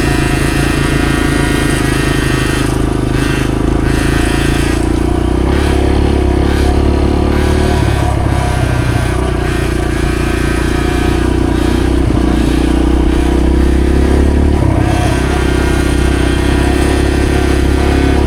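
Dirt bike engine running steadily on a trail ride, loud and close, with small rises and falls in pitch as the throttle shifts.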